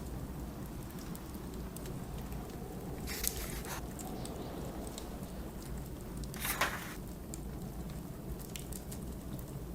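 Steady low rumble of blizzard wind with scattered small crackles of a wood fire, and twice, about three seconds apart, the brief papery swish of a book page being turned.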